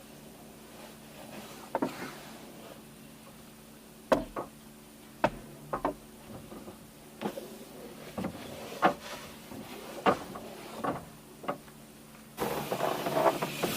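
About a dozen separate short knocks and clicks, spaced unevenly over a quiet background. Near the end a loud, steady hiss starts suddenly.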